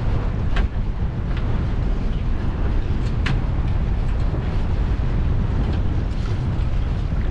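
Wind buffeting the microphone in a low, steady rumble on a small boat at sea, with a few short, sharp sounds over it, about half a second, a second and a half, and three seconds in.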